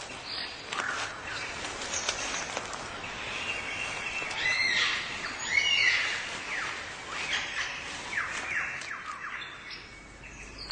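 Birds singing and calling: a busy run of whistled notes, chirps and quick downward-sweeping calls, loudest in the middle and thinning out near the end.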